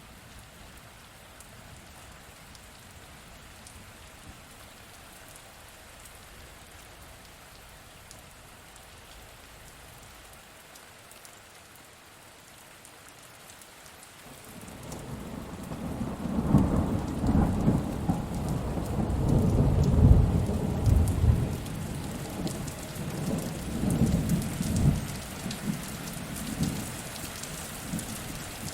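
Steady rain, with a long roll of thunder that builds from about halfway through, rumbles loudest for several seconds, then fades away near the end.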